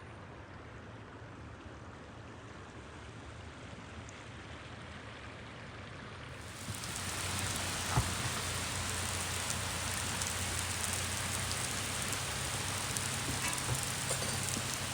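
Rain falling on a truck camper's roof, a steady hiss of drops over a low hum. It is softer at first and turns much louder about six seconds in, with a single knock a couple of seconds later.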